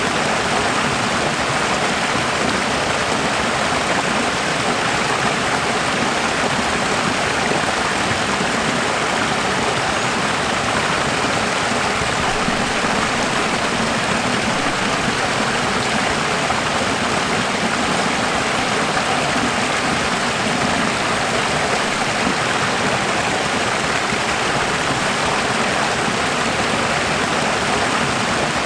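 Running water, a steady, even rush like a stream or small waterfall, with no change throughout.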